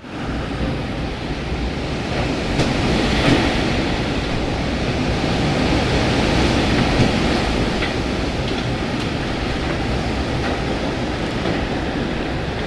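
Strong tornado wind blowing in a loud, steady rush, buffeting the microphone, with a few faint clicks through it.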